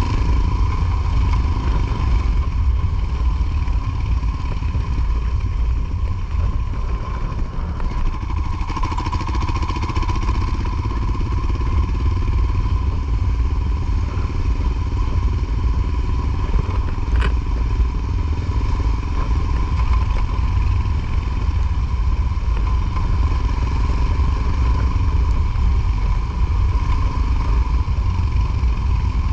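Motorcycle riding along with its engine running steadily under a constant deep rumble. A single sharp click comes about seventeen seconds in.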